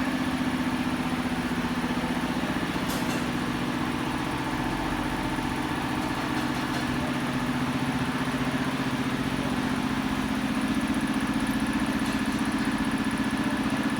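Steady machine hum with a faint higher whine, like an electric motor running at a constant speed.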